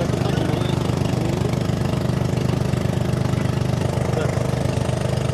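An engine idling steadily, a low hum with a rapid, even pulse.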